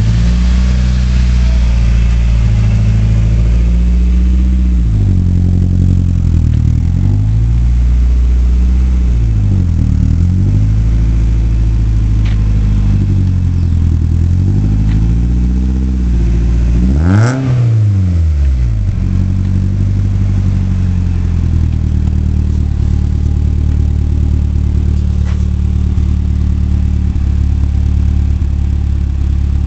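Nissan S13 240SX's engine through a newly fitted aftermarket exhaust, running with several slow swells in pitch, one sharp throttle blip about two-thirds of the way through, then settling to a steady idle.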